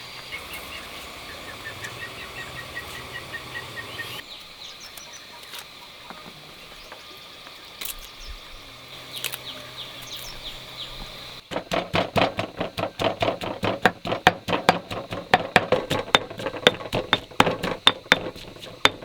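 Birds singing with quick repeated notes over a steady insect drone. From about two thirds of the way in, rapid even chopping, about seven knocks a second, like a knife on a wooden cutting board.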